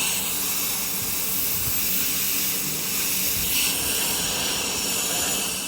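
MIG welding arc burning steadily: a continuous crackling hiss.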